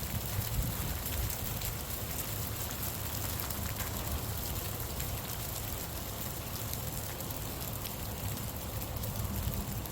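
Steady rain falling, with many small drop hits and a low wind rumble on the microphone.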